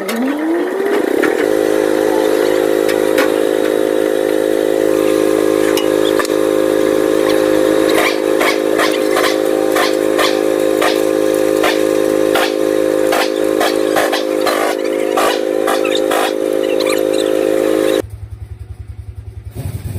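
A power tool's motor spins up, rising in pitch over about a second, then runs at a steady speed. Repeated sharp metallic clicks and clatter come through the middle stretch. Near the end the motor sound cuts off abruptly, and a low pulsing hum takes its place.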